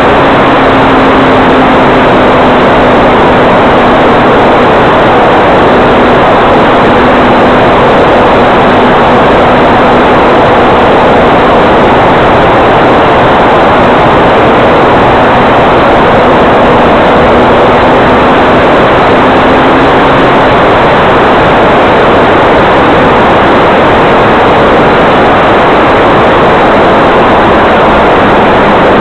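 Electric motor and propeller of a balsa RC scale plane, a Hyperion O-1 Bird Dog, running steadily in flight: a faint constant hum under a loud, even rushing noise, the hum sagging a little in pitch over the stretch.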